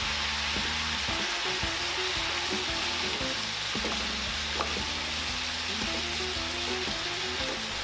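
Ground beef frying in a pan with a steady sizzling hiss, as it browns in its own fat with a little Worcestershire sauce. Scattered light clicks come from a utensil stirring and breaking up the meat.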